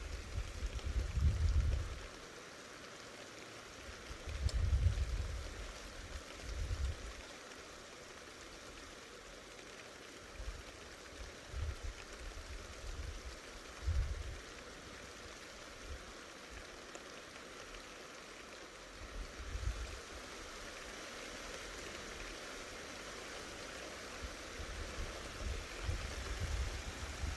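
Steady rain hissing during a thunderstorm, with irregular low rumbles swelling and fading every few seconds.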